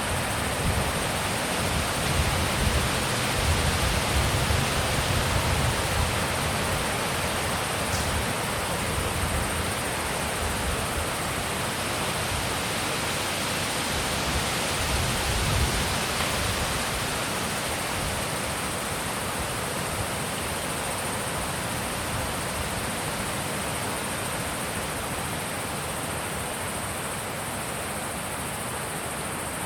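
Wind blowing in a steady wide hiss, with low gusts buffeting the microphone that die away about halfway through.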